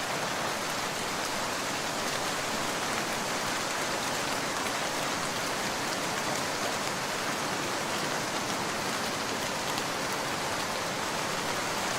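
Steady rain falling: an even hiss flecked with the patter of individual drops.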